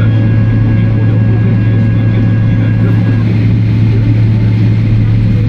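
Steady low drone inside the cabin of a Boeing 777-300ER on the ground during pushback and engine start, with a thin high steady tone that stops about three seconds in.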